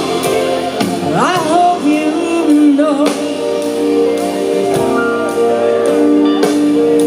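Live band music with singing: held chords under a melody line that slides and wavers in pitch about a second in and again about three seconds in.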